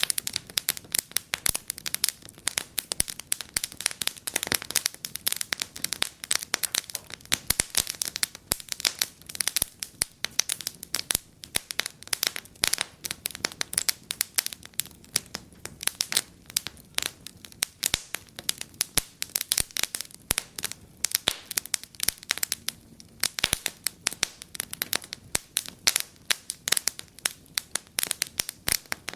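Wood fire crackling and popping in a fireplace: a dense, irregular run of sharp snaps over a faint low hiss of flame.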